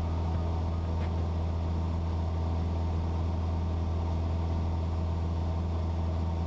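Cessna 172's four-cylinder piston engine and propeller droning steadily during a climb at around 9,000 ft, an even low hum with no change in pitch or loudness.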